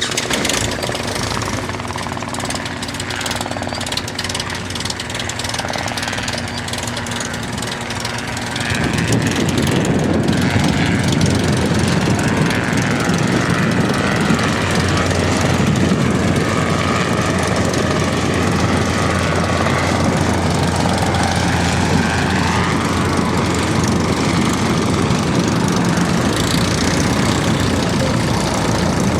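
Light propeller airplane engine, the Legend Cub's, running at idle with a steady hum, then opening up about nine seconds in to a louder, rougher, steady run.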